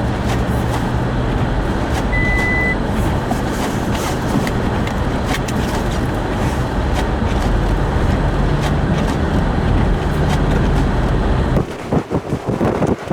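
Steady road and engine noise of traffic on a highway, with a low droning hum and one short high beep about two seconds in. Near the end it changes abruptly to gusty wind buffeting the microphone.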